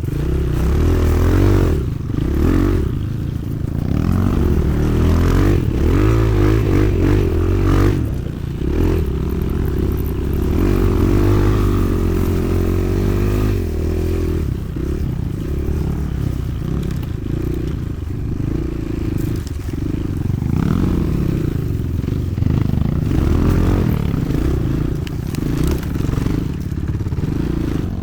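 Motoland XR 300 Lite enduro motorcycle engine running while being ridden, its revs rising and falling continuously.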